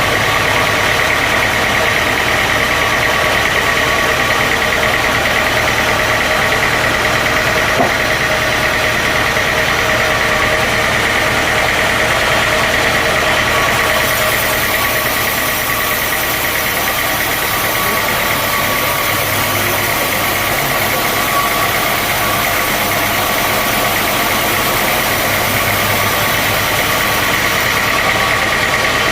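Sawmill machinery running steadily: an even mechanical drone with a high steady whine. About halfway through a high hiss is added, lasting almost to the end.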